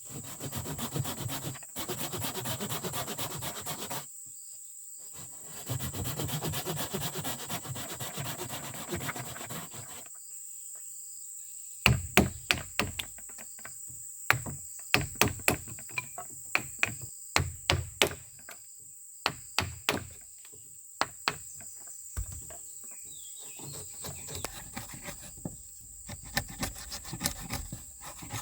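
Sharp knocks on wood in short quick clusters, like chopping or hammering with a blade or stick, after a stretch of rough scraping. A steady high insect drone runs underneath.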